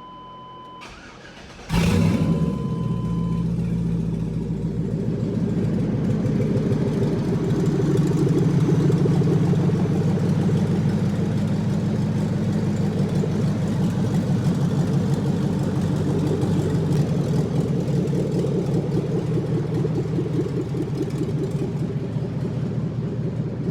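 LS V8 engine in a 1993 Chevy OBS pickup cranking and catching about two seconds in, then idling steadily on its first startup after the swap. A steady electronic warning tone sounds before the start and stops a couple of seconds after the engine catches.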